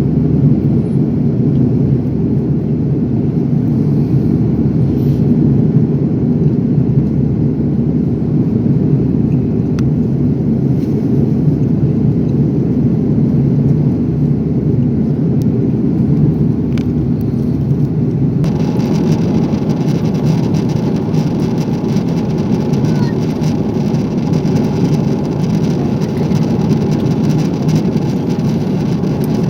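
Steady cabin noise of an Airbus A340 airliner: a loud, even rumble of engines and airflow. About two-thirds of the way through, the sound turns suddenly brighter, with a faint steady hum added.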